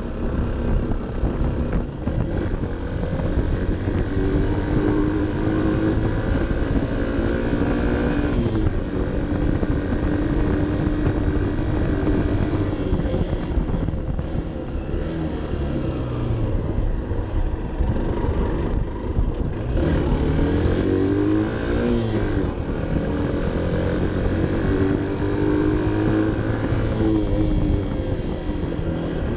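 Honda CB 125 F's single-cylinder 125 cc four-stroke engine running under load on a climb, its pitch rising with the revs and dropping back several times, as around eight seconds in and again near the end.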